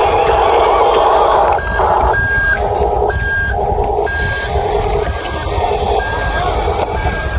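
Reversing beeper of a radio-controlled construction vehicle, beeping about once a second from a little way in, over the steady whine of its small electric drive motor.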